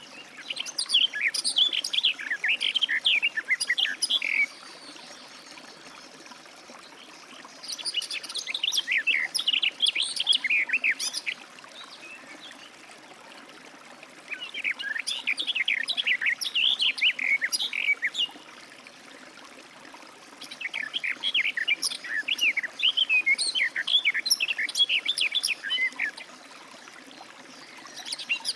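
A garden warbler singing its long, rapid, warbling song phrases, four in all, each about four seconds long with pauses of a few seconds between them.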